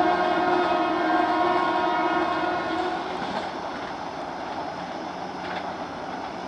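Train horn sounding a steady held note for about three seconds over the running noise of a passing train, which carries on after the horn stops.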